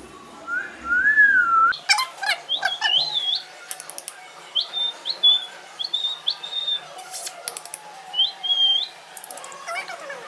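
Pet parrot calling: a gliding whistle that rises and falls, then sharp clicks and a string of short, high chirping whistles.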